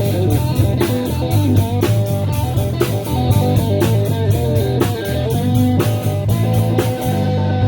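Rock band playing an instrumental passage between sung verses: electric guitar over bass guitar and drums with a steady beat.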